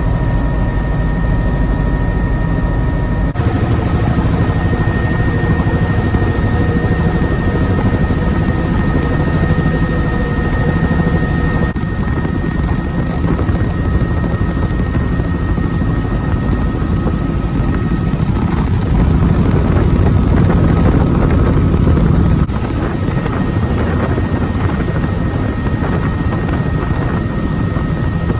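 Helicopter rotor and engine noise heard from inside the cabin with the doors off, loud and steady with a thin high whine over it. The sound shifts abruptly a few times.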